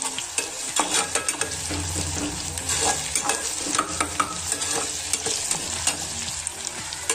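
Sliced onions and chillies sizzling in hot oil in a pressure cooker while a metal spatula stirs them, scraping and tapping against the pot over and over.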